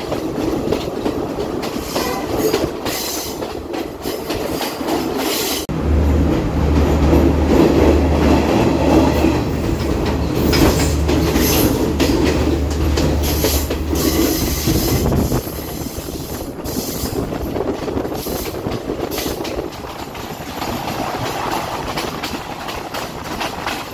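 Passenger train running along the track, heard from an open carriage doorway: a steady rumble with wheels clattering over the rails. For about ten seconds in the middle the rumble grows louder and deeper.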